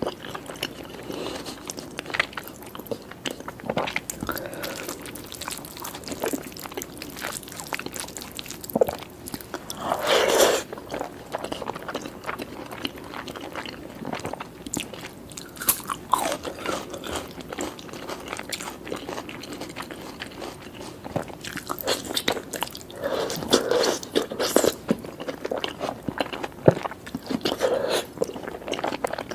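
Close-up eating sounds: chewing and biting food, with crunchy bites and many small irregular clicks. There are a few louder bursts about a third of the way in and again around four-fifths through.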